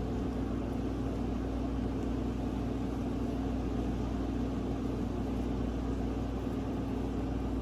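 Steady mechanical hum and whir with a constant low tone, unchanging.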